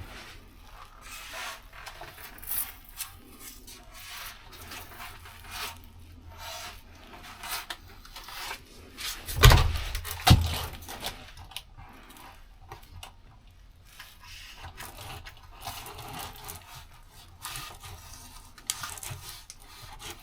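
Rubbing and scraping as a stiff sound-insulation mat is pressed and worked onto the truck cab's sheet-metal panel by hand, with two sharp knocks about halfway through.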